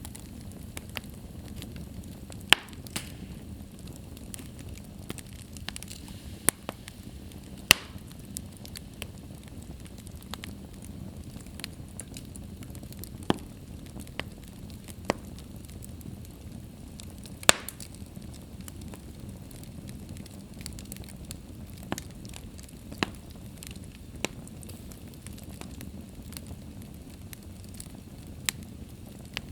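Fire burning in a fireplace: a steady low rushing of the flames with sharp pops and crackles at irregular moments, a few much louder than the rest.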